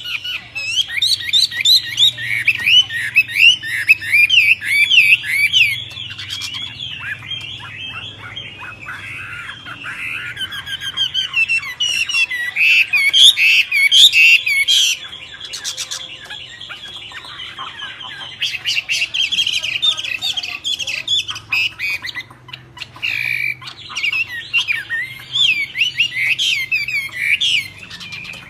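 Birds calling in a dense, rapid chatter of squawks and short whistled notes that sweep up and down, coming in louder spells with brief lulls between.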